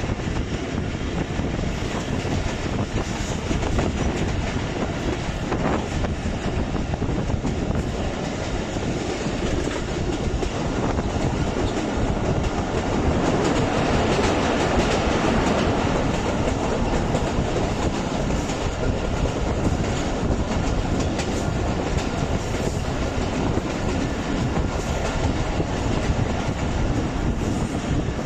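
Passenger train running along the track, heard from beside a coach: a steady rumble of the wheels with clatter and clicks from the rails, growing somewhat louder about halfway through.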